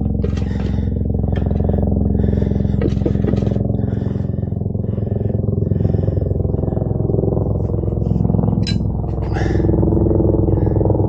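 A motor running steadily with a low, even hum, with short noisy bursts coming over it every second or so.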